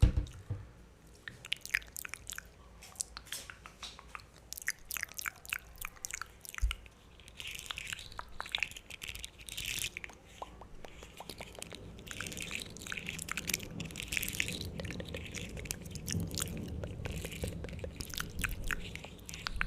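Wet mouth sounds made close to a sensitive microphone: quick irregular tongue clicks, lip smacks and sucking sounds, in denser runs partway through. A low thump at the start and another about seven seconds in.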